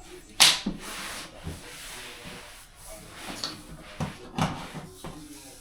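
Installation work on a dishwasher in its cabinet: a sharp knock, then rubbing and scraping, and a few more knocks about four seconds in.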